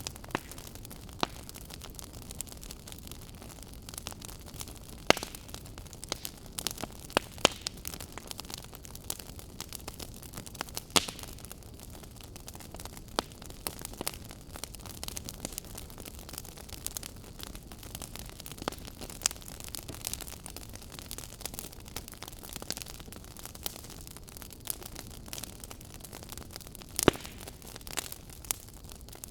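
Wood fire crackling in a fireplace: a steady low hiss with frequent sharp pops and snaps, a few much louder pops scattered through.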